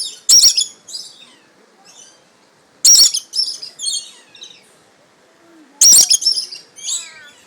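Birds calling: three loud, shrill squawks about three seconds apart, each trailed by a few quieter calls.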